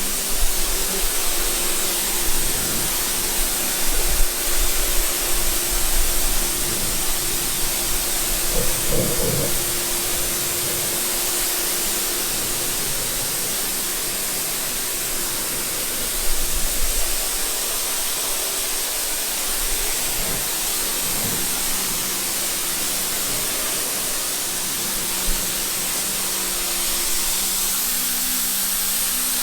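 Water spraying steadily, a continuous hiss with a faint low hum underneath.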